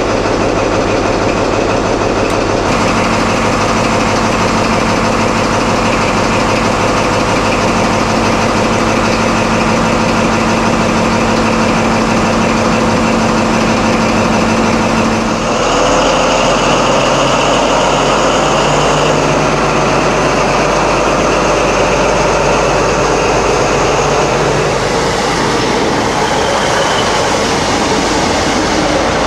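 Diesel engine of a High Speed Train (InterCity 125) Class 43 power car running loud and steady. Its engine note changes about halfway through.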